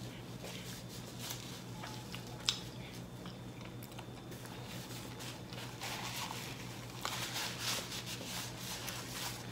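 A person chewing food close to the microphone: wet mouth sounds and soft crunches, with one sharp click about two and a half seconds in and a denser patch of noises near the end, over a steady low hum.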